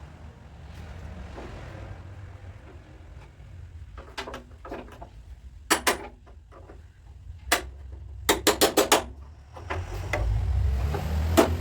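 Hammer tapping on the sheet metal of a Peugeot's front body panel during dent repair: two pairs of sharp taps, a single tap, then a quick run of about five taps near the end. A low steady rumble runs underneath.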